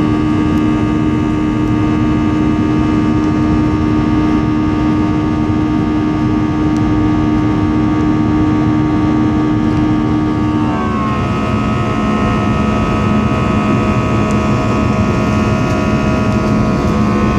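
Airliner engines and cabin noise heard from inside the cabin during climb-out: a steady drone with several held tones. About eleven seconds in, the tones slide down to a lower pitch and hold there.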